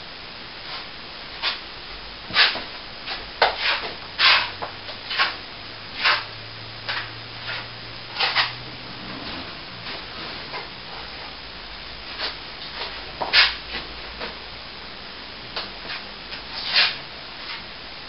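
A plastering tool scraping over a plaster wall in short, irregular strokes, some louder than others, over a steady hiss.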